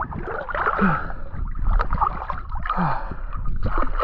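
Water sloshing and gurgling close around the microphone as a swimmer moves at the lake's surface, with scattered small splashes and a few short falling gurgles.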